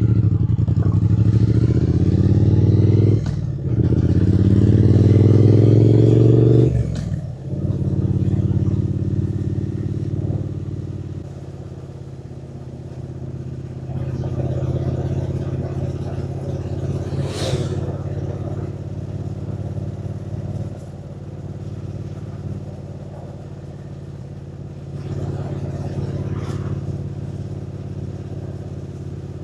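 Triumph Speed Twin 900's parallel-twin engine pulling away and revving up through the gears, with two gear changes in the first seven seconds. It then runs at a steady, quieter cruise with road and wind noise. There is a brief sharp noise about two-thirds of the way in.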